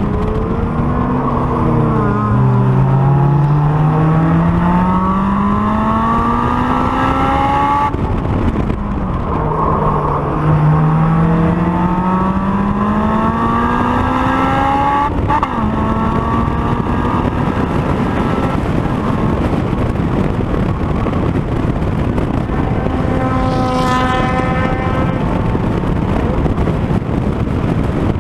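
Honda S2000's four-cylinder engine pulling hard on track. Its pitch climbs steadily, drops at a gear change, and climbs again. From about halfway through, the engine note fades into steadier running noise.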